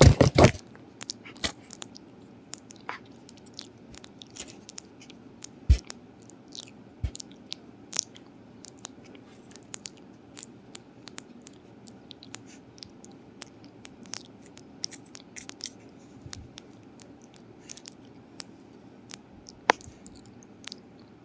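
Dog chewing and crunching food close to the microphone, with many short, irregular bites and crunches. It opens with a loud flurry of crunches.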